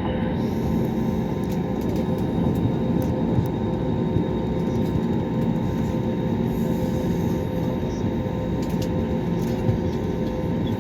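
Airbus A320neo jet engines running steadily at high power, heard from inside the cabin: a loud low rumble with a few steady whining tones on top, typical of the takeoff run or initial climb.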